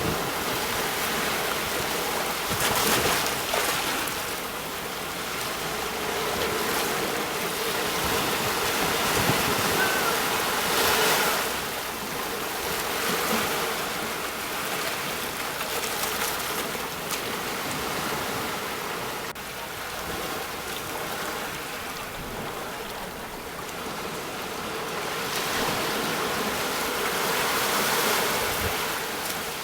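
Sea waves breaking on the shore: a steady wash of surf that swells louder a few times as waves break.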